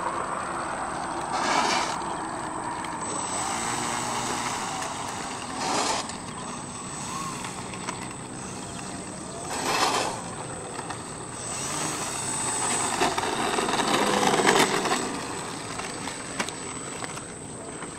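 Radio-controlled model Cessna 182's motor and propeller running, swelling in loudness four times and falling back between.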